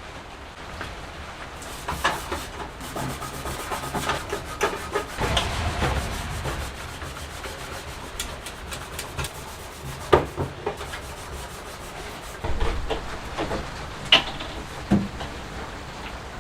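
Hand work on a part: irregular rubbing and scraping, with scattered light clicks and knocks, the sharpest about ten seconds in.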